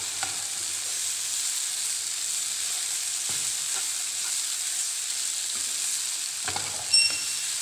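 Bitter gourd slices and tomato-onion masala sizzling in a frying pan as a steel spoon stirs and scrapes through them. Near the end the spoon strikes the pan once with a short metallic ring.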